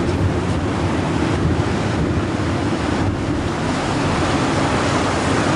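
Rough surf with waves breaking and washing ashore, and wind buffeting the microphone; a steady, loud wash of noise.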